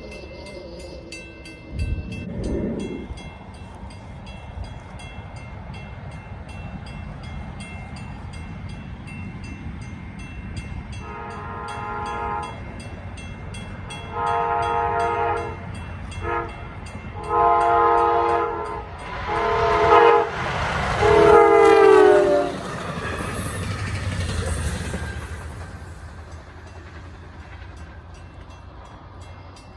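Passing train with its locomotive's multi-note air horn sounding a series of blasts: long, long, short, long, then two more, the last one dropping in pitch as the train goes by. Under it runs the low rumble of the train, which fades near the end.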